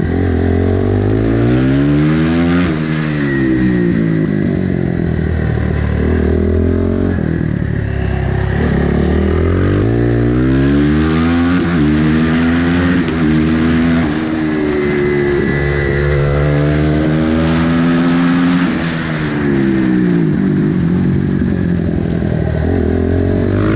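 Supermotard motorcycle engine at race pace, its pitch climbing and falling away again and again as it accelerates, shifts and slows for the corners.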